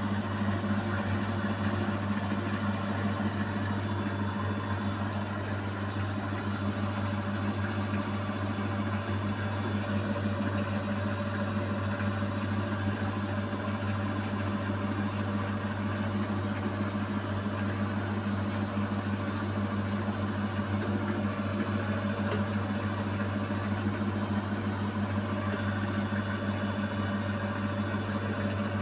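Beko WMY81283LMB2 washing machine in its final spin with an unbalanced load of curtains, the drum and motor running at a steady speed with a constant low hum and vibration.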